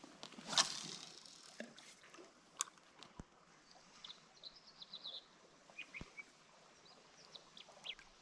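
Small birds chirping in quick high runs, the busiest a little after the middle. About half a second in there is a short rushing sound, the loudest thing heard, and a few sharp clicks follow.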